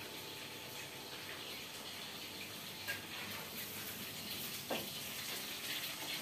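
Thin chicken breast fillets frying in oil in a wok, a steady sizzle, with two brief knocks about three and five seconds in.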